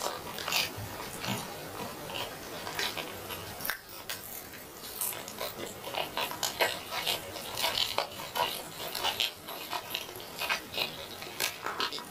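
Close-miked eating sounds: a person chewing roast chicken with wet lip-smacking and many short crackling clicks, going on without a break.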